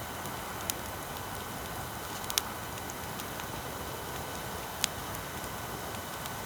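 Wood bonfire crackling: three sharp pops over a steady hiss.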